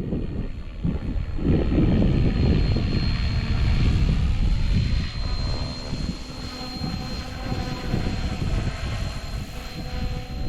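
Electric SAB Goblin RC helicopter in flight: a steady high whine and rotor drone that slowly shifts in pitch as it moves. Wind gusts buffet the microphone underneath.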